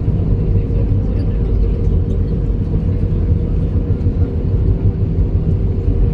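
Steady loud rumble inside the cabin of an Airbus A321, the engines and airframe running, with a steady hum above the rumble.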